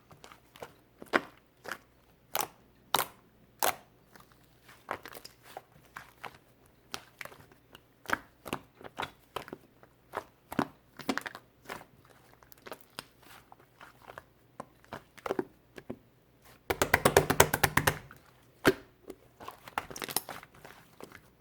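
Hands kneading, squeezing and pulling apart angel clay mixed with food bits, making sharp, irregular crackles and pops. Near the end comes about a second of rapid crackling.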